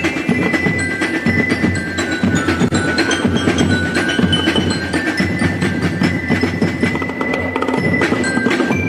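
Percussion music: struck metal instruments ringing with clear tones over a dense, continuous clatter of beats.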